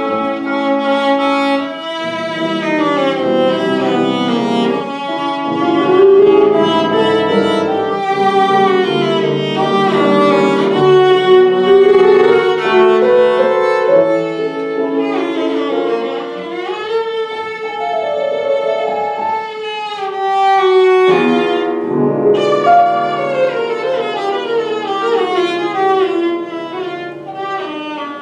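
Violin playing a classical melody with piano accompaniment, live, with a brief break between phrases about three-quarters of the way through.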